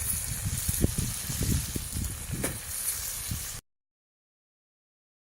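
Campfire crackling and hissing, with a few sharper pops and low rumbling, possibly wind on the microphone; the sound cuts off abruptly to dead silence about three and a half seconds in.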